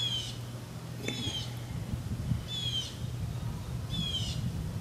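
A bird calling again and again: four short calls about a second and a half apart, each a quick run of falling notes, over a low steady hum.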